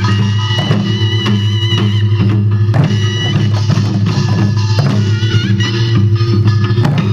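Korean traditional music for the Jindo drum dance: repeated strikes on buk barrel drums over a sustained, wavering melody and a steady low drone.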